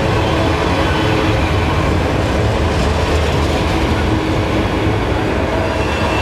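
Freight train passing at close range, the diesel locomotive engines running with a steady low hum over the rolling rumble of wheels on rail.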